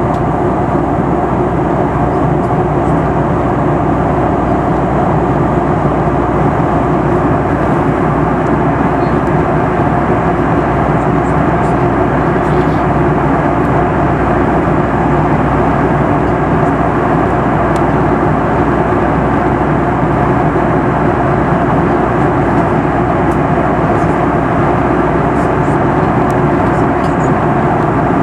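Steady cabin noise inside a Boeing 737 MAX 8 in cruise: the even roar of airflow and its CFM LEAP-1B engines, heard from a passenger seat.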